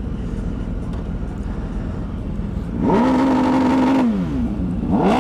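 A high-performance engine on launch control: idling, then about three seconds in it revs up quickly and holds at one fixed engine speed for about a second before dropping back, and near the end it revs up and holds again.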